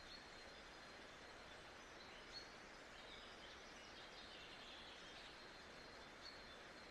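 Faint, steady nature ambience: an even hiss with scattered brief bird chirps.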